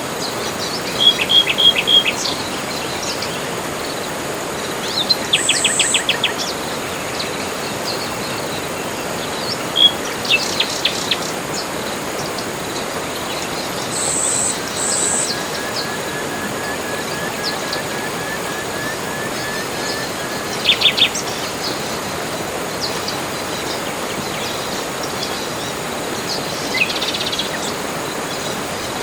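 Birds of a tropical forest calling now and then over a steady background hiss: short runs of repeated notes, quick trills, a couple of high piercing notes and a faint run of evenly spaced chirps.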